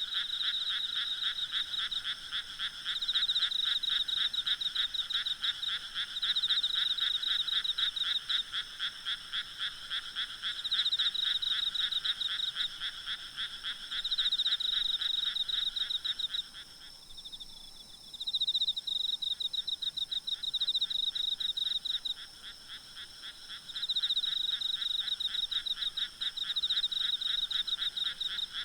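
A night frog chorus in the countryside: several frogs giving rapid, rattling pulsed calls in overlapping bouts, one lower-pitched caller pausing briefly about two-thirds of the way through. Faint steady insect trilling sits high above it.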